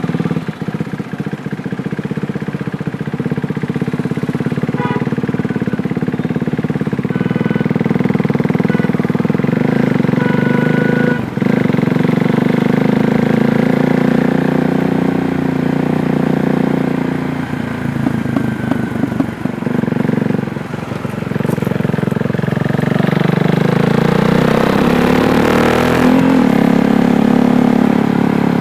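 KTM Duke 390's single-cylinder engine running while riding, its note dropping back a few times through the middle and then climbing under acceleration near the end, broken briefly by a gear change.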